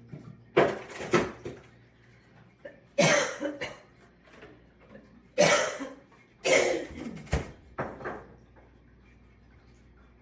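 A person coughing, several short coughs spread over about eight seconds.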